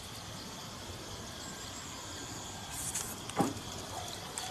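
Steady outdoor background hiss with a faint, even high insect drone, and one short sudden sound about three and a half seconds in.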